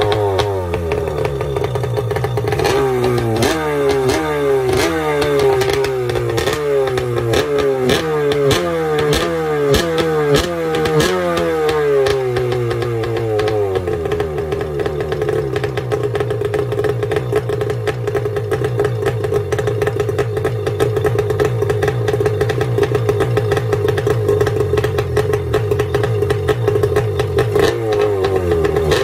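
Kawasaki 650 X2 two-stroke 650cc engine being revved in quick blips, about one a second, for the first twelve seconds, then held at a steady speed. It starts blipping again near the end.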